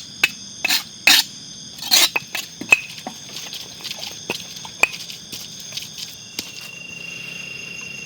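Spices being pounded and ground in a mortar to a finer paste: a run of irregular sharp knocks that thins out after about five seconds, over steady high insect trilling.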